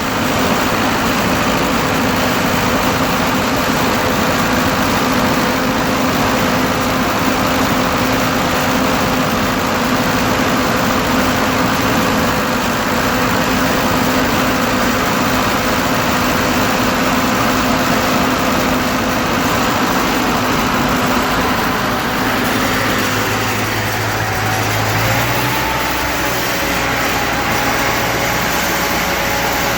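1942 Ford 9N tractor's four-cylinder flathead engine running steadily after its distributor points were re-gapped. Its pitch shifts about three quarters of the way through, with a brief rise in engine speed.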